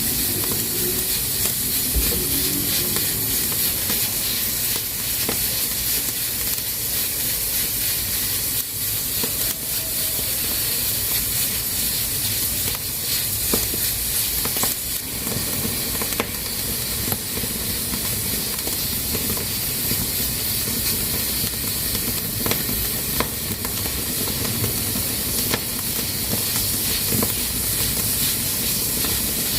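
Pressure cooker hissing steadily as steam escapes through its valve, with scattered faint clicks.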